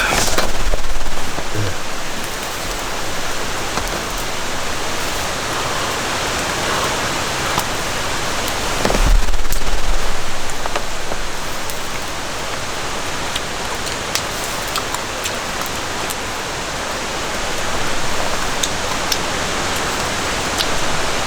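Steady rain falling, an even hiss dotted with sharp drip ticks, swelling louder with a deep low rumble just after the start and again about nine seconds in.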